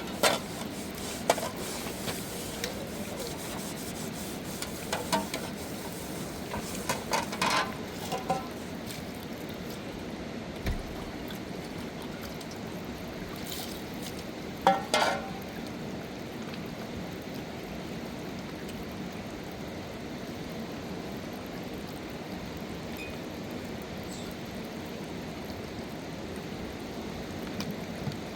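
Steady rushing of river water, with a few scattered knocks and clatters, the loudest about fifteen seconds in.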